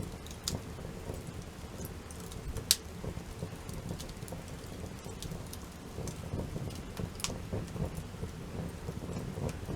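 Wood campfire burning with a steady low rumble and scattered sharp crackles and pops; the loudest pop comes about two and a half seconds in.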